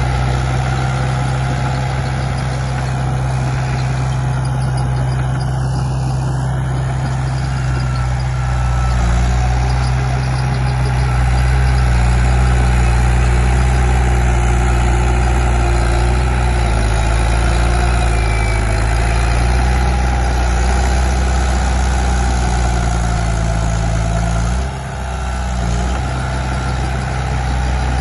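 Komatsu D31P crawler bulldozer's diesel engine running steadily, a deep even engine hum that swells a little about a third of the way in and dips briefly near the end.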